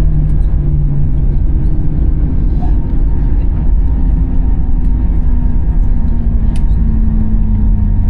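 Vehicle engine running with a loud, steady low rumble, its tone slowly rising in pitch.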